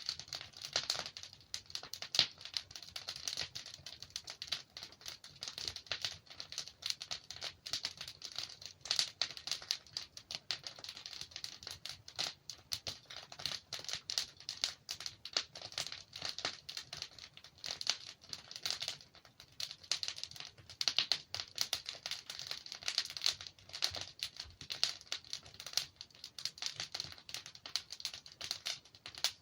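Logs burning in a fireplace, crackling and popping: a steady stream of small sharp snaps with a few louder pops among them.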